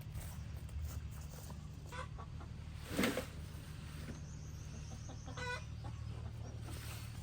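Chickens clucking over a steady low hum, with one short louder sound about three seconds in and a brief pitched call a couple of seconds later.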